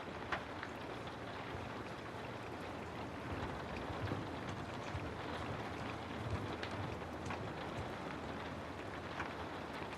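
Steady rain falling, with individual drops ticking sharply now and then; the loudest tick comes shortly after the start.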